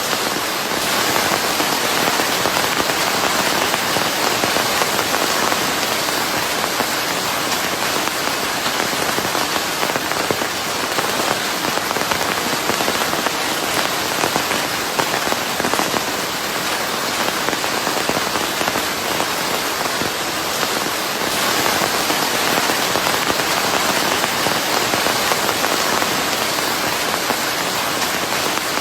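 Steady heavy rain pattering on a surface, a dense even hiss of countless drops mixed with white noise, with no thunder or other events.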